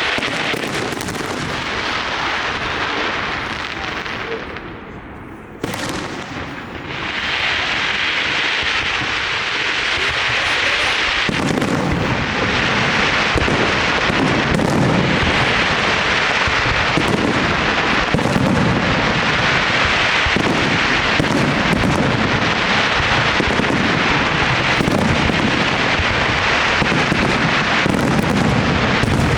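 Large aerial fireworks display: a continuous barrage of shells bursting and crackling, with a short lull about five seconds in, then a denser barrage with heavier booms from about eleven seconds on.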